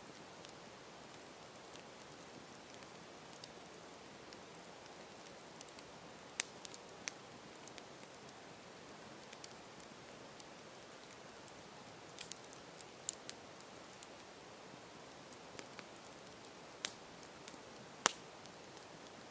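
Campfire crackling: a steady low hiss with scattered sharp pops and snaps, the loudest near the end.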